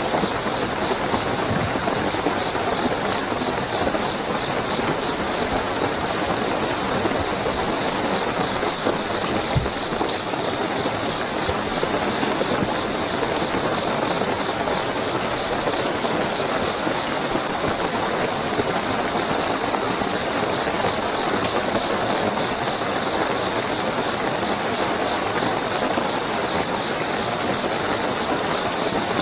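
Steady heavy rainfall with a continuous high-pitched cricket trill running over it.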